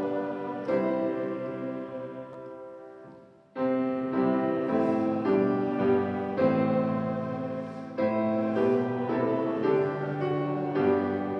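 Piano playing a hymn in struck chords; about three seconds in, a phrase dies away into a short pause before the next phrase begins.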